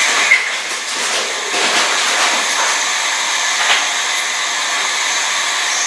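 A steady, loud rushing hiss, with a few faint clicks.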